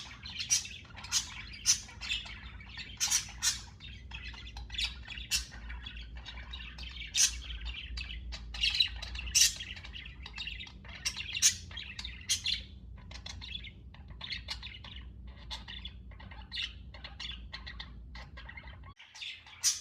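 Pet budgerigars chirping and singing: a steady stream of short, high chirps with sharper, louder calls every second or so. A low, steady hum underneath stops near the end.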